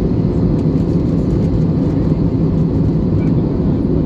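Steady cabin noise of an Airbus A320neo airliner in cruise: a constant low rumble that does not change.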